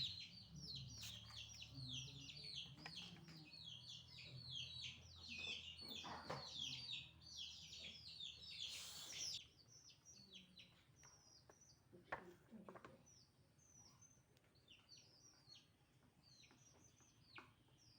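Faint, rapid chirping of small birds: many short, falling chirps overlapping. It is dense for about the first half and then thins to scattered chirps, with a couple of brief rustling noises in between.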